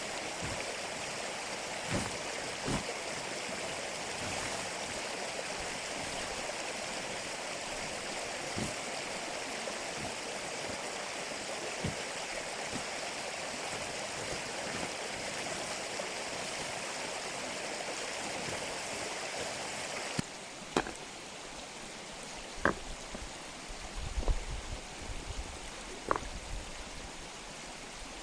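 Mountain stream running, a steady rush of water. About two-thirds of the way through it cuts to a quieter sound with scattered sharp clicks and taps.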